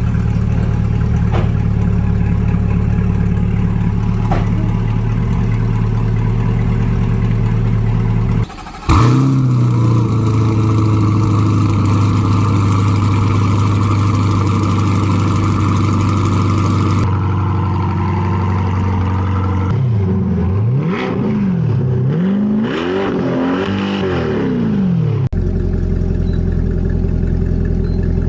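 Chevrolet C8 Corvette V8 engines through aftermarket center-exit exhausts: a steady idle, a sharp throttle blip about nine seconds in, then several quick revs rising and falling in pitch near the end.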